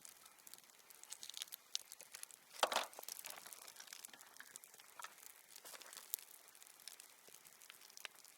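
Crinkling and rustling with many scattered small clicks, and one louder rustle about two and a half seconds in.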